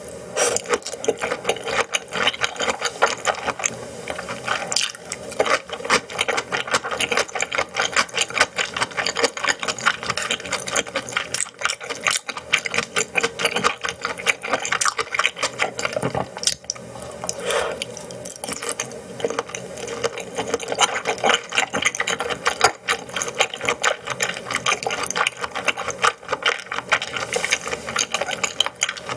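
Close-miked chewing of raw yellowtail sashimi: a dense, unbroken run of quick mouth clicks and smacks.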